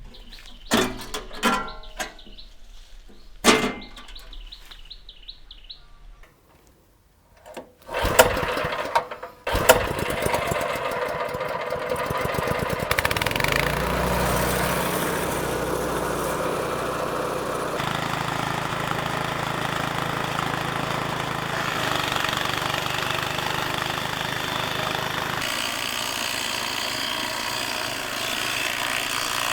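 A few clicks and knocks, then from about eight seconds in a small engine-driven machine running steadily.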